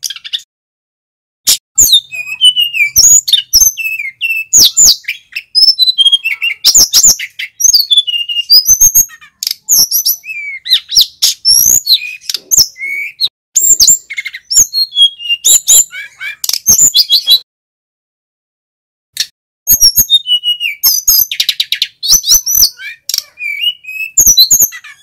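Male sikatan gunung (mountain flycatcher) singing loudly: rapid high chirps, twitters and short whistled notes in dense bursts, with a pause of about two seconds a little past the middle.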